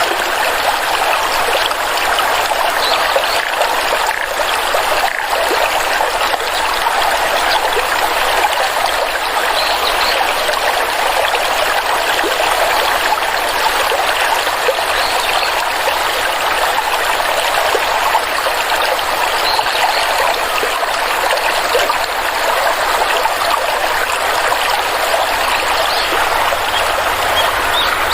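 Water stream flowing and trickling steadily.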